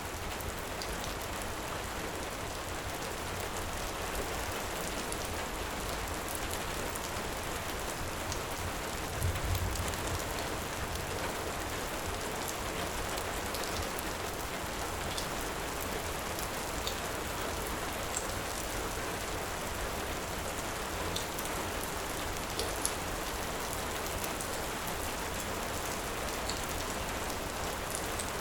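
Steady heavy rain, with scattered faint crackles of a wood fire and a brief low rumble about nine seconds in.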